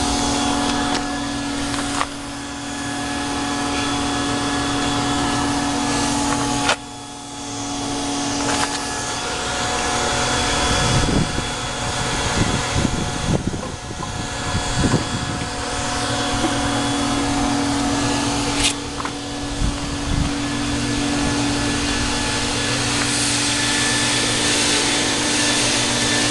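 Hot rod engine idling steadily, a constant hum with a whine over it, heard from low beside and beneath the car.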